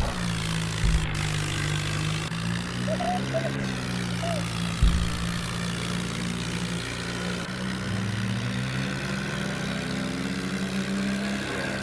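Mahindra tractor's diesel engine running at a steady speed, its pitch shifting a little about two-thirds of the way through, with a couple of low thumps.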